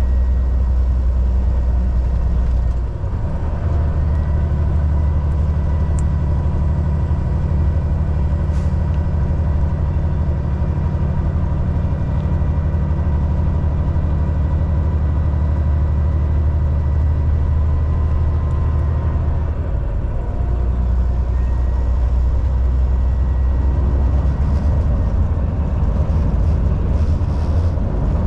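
Volvo VNL 760 semi truck driving at highway speed: a steady diesel engine drone with road noise. The engine note changes briefly about three seconds in and again around twenty seconds in.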